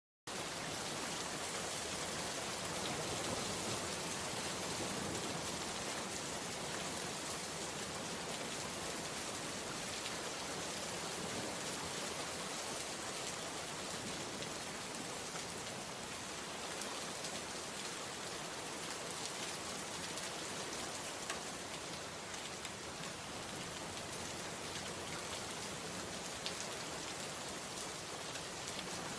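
Steady rain falling: an even, dense hiss with scattered faint drop ticks. The sound cuts out for a split second at the very start.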